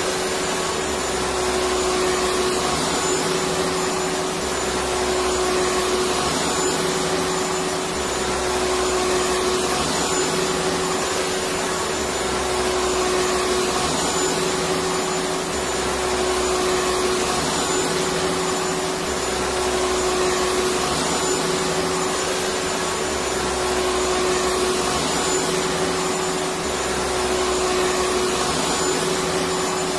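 Vacuum cleaner running steadily: a continuous motor whine and rush of air. Under it a low hum swells and drops about every three to four seconds.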